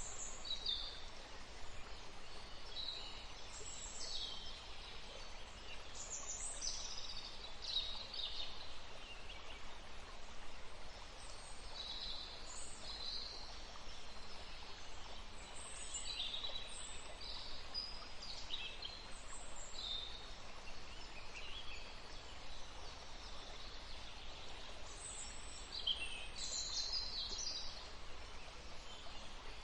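Birds chirping in many short, high calls scattered throughout, over a steady faint background hiss.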